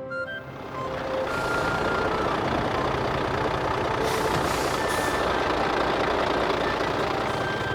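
Loud, steady vehicle noise, building up over the first second or so, with a brief hiss about four seconds in.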